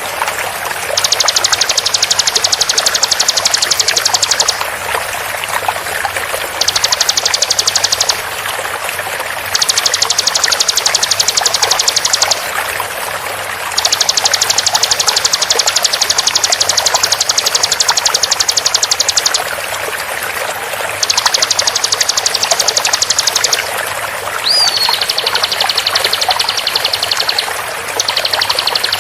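Bar-winged prinia (ciblek) song: very fast, high, rattling trills in repeated bursts of one to six seconds with short gaps, and a short rising-and-falling whistle about three quarters of the way in. Under it runs the steady rush of flowing water.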